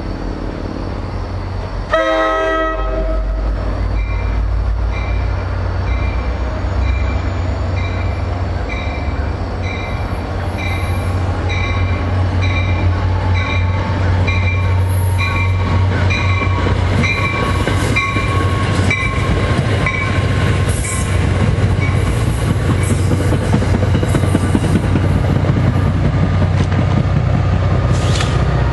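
A Metro-North GP40FH-2 diesel push-pull train approaching and passing, its rumble growing louder toward the end. A short horn note sounds about two seconds in. A bell rings in a steady rhythm from about four seconds in until a little past twenty seconds.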